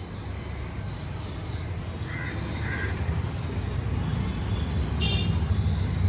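Short bird calls, two close together about two seconds in and a higher one about five seconds in, over a steady low rumble.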